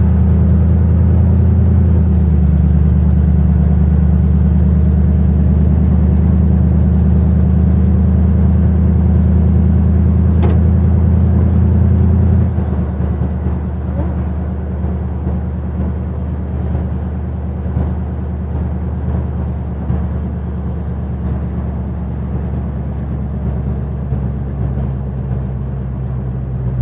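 Old Chevy pickup truck's engine running while driving, a steady low drone. About twelve seconds in it suddenly drops to a lower level and runs on more quietly. A single short click about ten seconds in.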